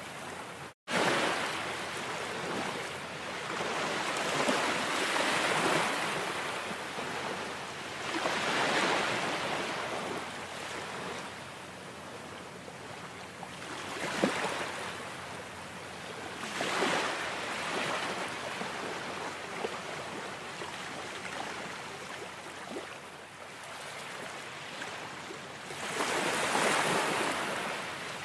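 Ocean waves washing in and receding, the surf swelling and fading every few seconds, with a brief dropout about a second in.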